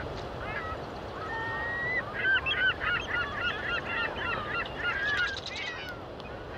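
Birds calling: a rapid, jumbled run of short chirping notes, with a single drawn-out whistle shortly before the busiest stretch, over a steady background hiss.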